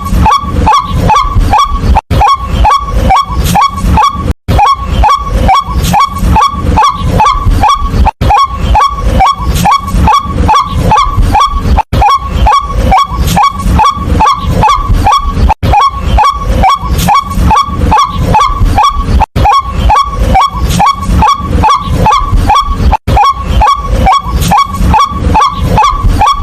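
White-breasted waterhen calling: a loud, monotonous run of short kwak notes, about three a second, each dropping slightly in pitch, broken by a brief gap every three to four seconds.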